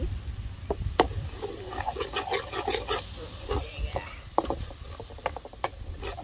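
Metal ladle stirring and scraping around a black wok of spiced green onion and garlic frying in oil, with sharp clinks of the ladle on the pan, the loudest about a second in and more in quick clusters later.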